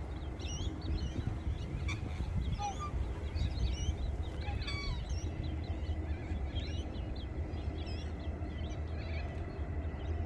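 Many birds calling at once: a busy chorus of short, repeated chirps, heard over a low steady rumble.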